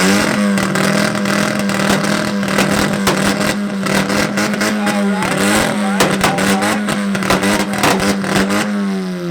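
Car engine revved up and held at a two-step launch limiter: a steady high drone broken by rapid exhaust pops and bangs. The revs drop back near the end.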